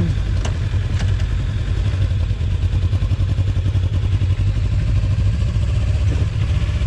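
Kawasaki Ninja 300's small parallel-twin engine idling steadily, with two light clicks about half a second apart near the start.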